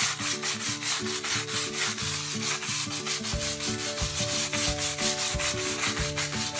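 Hand scrub brush scrubbing wet ceramic floor tiles in quick, steady back-and-forth strokes, several a second, working bleach water into the dirt.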